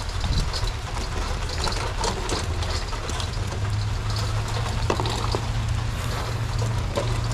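Heavy rain pouring down, with many small drop ticks over a steady wash of noise, and a steady low hum underneath.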